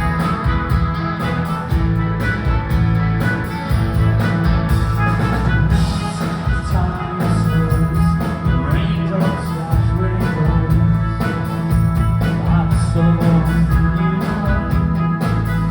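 Live pop-rock band playing, with a steady drum beat, bass and layered guitar and keyboard parts, amplified through a venue PA.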